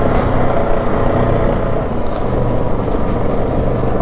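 Yamaha Grizzly 700 ATV's single-cylinder engine running at a steady pace while riding a trail, over a haze of tyre and trail noise.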